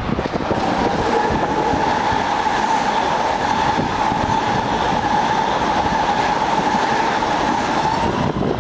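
Long Island Rail Road express train passing through the station at speed: a loud, steady rush of wheels clattering over the rails with a steady whine on top.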